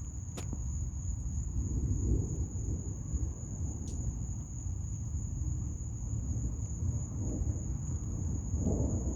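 Steady high-pitched chorus of crickets over a low rumble of distant thunder, which swells about two seconds in and again near the end.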